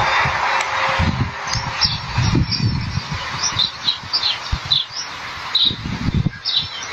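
Small birds chirping in short, repeated high calls, over irregular low rumbles and a faint background hiss.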